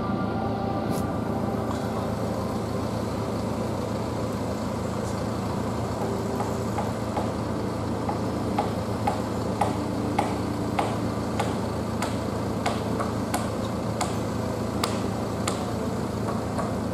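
Construction site: a machinery engine running steadily, with a run of sharp knocks, about one or two a second, through the second half.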